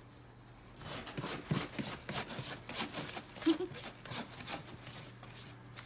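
A kitten scratching and tapping about: a quick, uneven run of small scrapes and taps from about a second in, with one brief vocal blip about three and a half seconds in.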